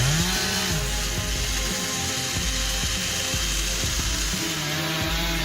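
Chainsaw running at speed, its engine pitch rising and then falling in the first second before holding steady.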